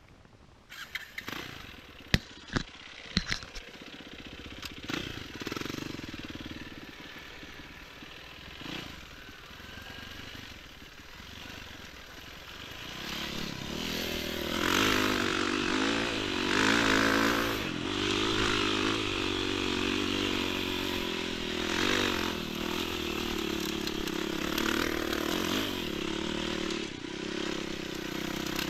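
Enduro motorcycle engine running, louder from about halfway through, its pitch rising and falling with the throttle. A few sharp clicks and knocks come in the first few seconds.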